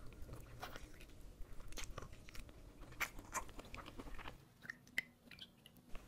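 Close-miked chewing and biting of a mouthful of spicy oven-baked pork rib, faint wet mouth clicks at an uneven pace. About four seconds in it drops to a few faint small clicks.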